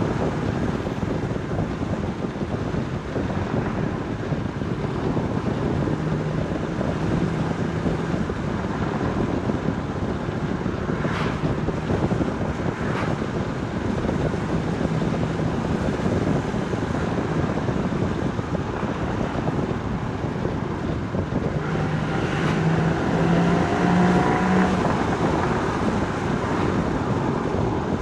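Porsche Boxster Spyder 981's 3.8-litre flat-six exhaust on the move, under heavy wind and road noise. The engine note climbs in steps about two-thirds of the way through as the car accelerates. There are two short sharp sounds near the middle.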